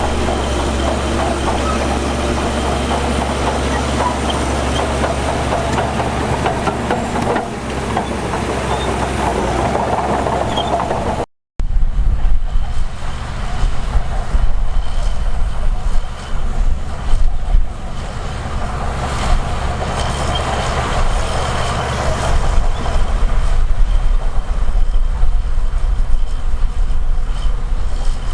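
Heavy diesel earthmoving machinery running steadily, a low engine rumble with a noisy working clatter. The sound cuts out for a moment about 11 seconds in and picks up again louder and rougher.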